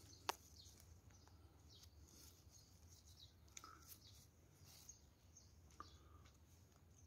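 Near silence: a low steady hum with a few faint, short bird chirps and a single sharp click near the start.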